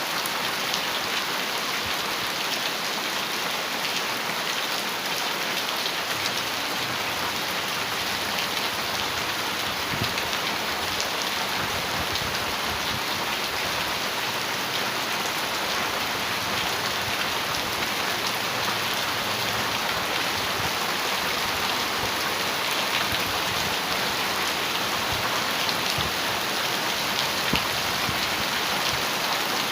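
Heavy rain falling steadily on a metal roof, a dense even hiss with fine pattering drops.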